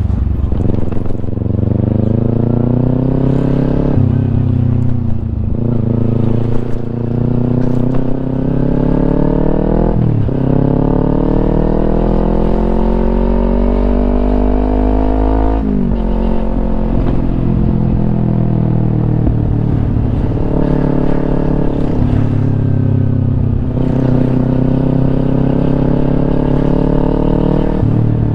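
Kawasaki Ninja 250 parallel-twin engine through a Yoshimura aftermarket exhaust, riding under acceleration. The engine note climbs steadily and drops sharply at each gear change, several times over, with one long pull through the revs in the middle.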